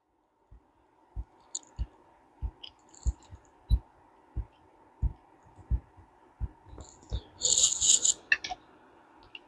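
Hands working on the parts of a Ted Williams 540 push-button reel: a string of soft low knocks about one to two a second, with a few faint small metal clicks. About three-quarters of the way in there is a short, bright metallic rattle.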